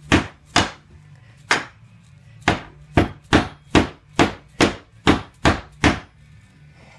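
Small hammer striking the top of a glued wheel peg, driving it into a wooden pull-toy: about a dozen sharp blows, spaced out at first, then coming about two a second, stopping about six seconds in.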